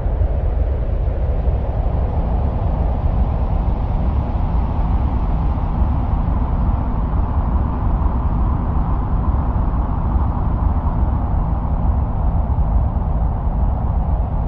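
Steady wind-like noise presented as the sound of Mars: a deep continuous rumble under a hissing band that slowly drifts higher and lower, with no breaks or separate events.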